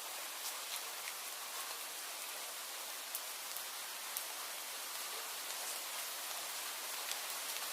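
Steady rain falling, an even hiss with scattered sharper ticks of individual drops hitting a surface.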